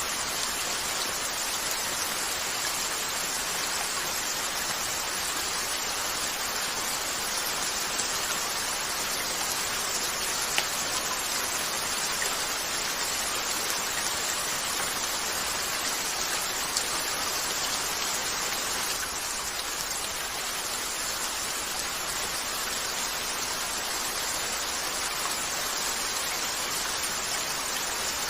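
Steady rain falling, an even hiss, with two sharp pops from a crackling wood fire, one about ten seconds in and one at about seventeen.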